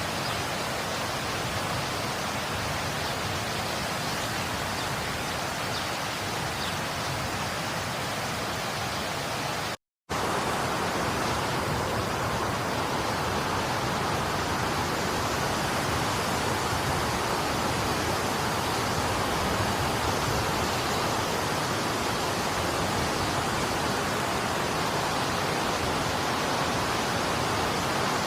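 Steady heavy rain. It cuts out completely for a split second about ten seconds in, then carries on slightly louder and brighter, as at a join between recordings.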